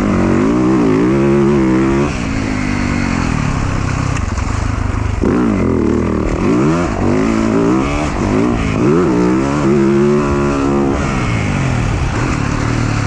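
Dirt bike engine revving hard and backing off again and again, its pitch climbing and dropping about half a dozen times.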